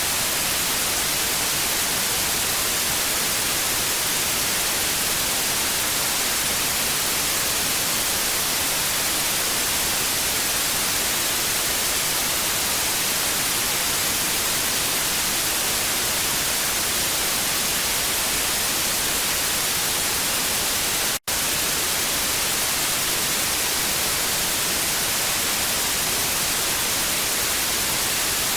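Television static: a steady hiss of noise, brightest in the treble, with a split-second gap about three-quarters of the way through.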